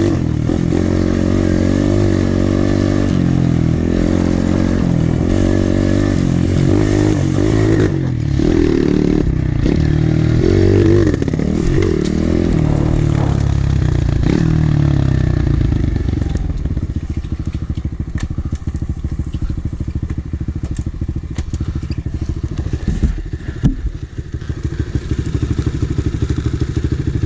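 Small single-cylinder pit bike engine revving up and down for about the first 16 seconds, then dropping to a steady, lumpy idle. There is a brief knock a few seconds before the end.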